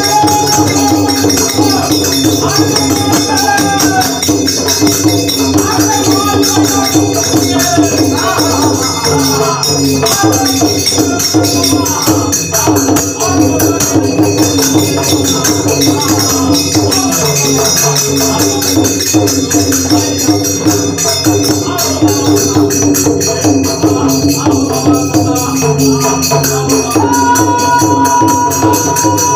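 Bhojpuri devotional bhajan music: jhaal hand cymbals jingling continuously over a drum, with a wavering voice or melody line above.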